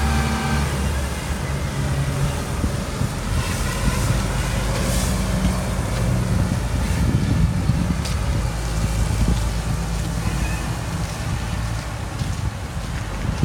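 Cat C7 diesel engine of a Freightliner M2 water truck running steadily.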